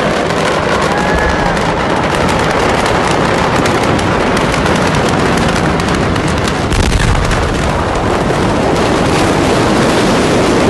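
Rapid, continuous crackling and popping like fireworks cooking off in a large fire, loud and dense throughout, with a low rumbling swell about seven seconds in.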